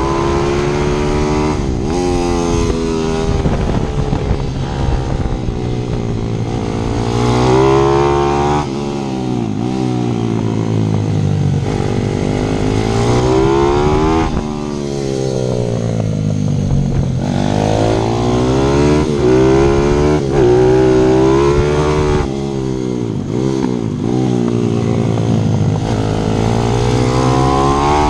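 155 cc single-cylinder four-stroke pit bike engine at full throttle around a kart track, the revs climbing hard and falling away over and over as the rider accelerates, shifts and brakes for corners.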